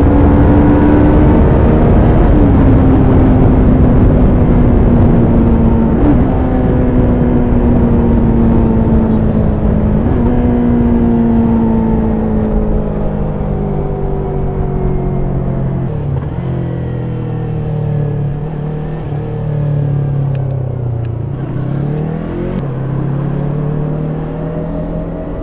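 Stock Yamaha YZF-R3's 321 cc parallel-twin engine and exhaust running under the rider, its note falling slowly with a few small shifts in pitch, over low wind rumble. About two-thirds through it settles to a lower, quieter note, dips briefly and then rises again near the end.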